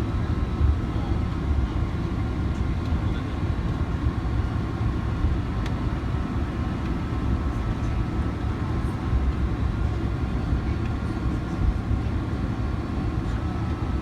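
Steady low rumble inside a jet airliner's cabin, with faint steady tones above it.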